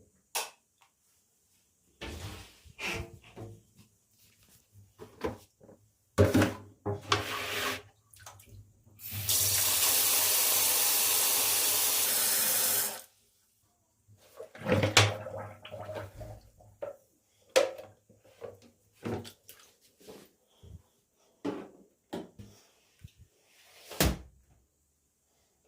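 Sink tap running for about four seconds in the middle, between scattered clatters and knocks of things being handled and set down.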